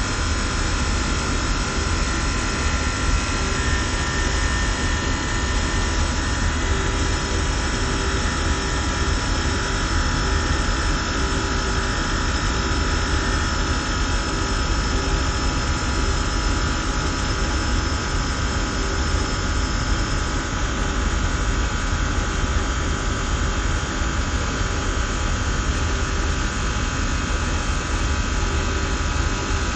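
SystemAir chiller–fan-coil HVAC equipment running steadily: a loud, even machine rush over a low rumble, with several steady whining tones.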